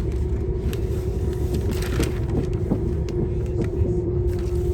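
Passenger train running along the track, heard from inside the carriage: a steady low rumble with a steady hum and a few light knocks and rattles.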